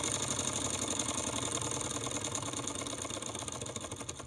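Small model Stirling engine running on an alcohol-lamp flame: its pistons and flywheel make a fast, even mechanical clatter that grows a little quieter toward the end.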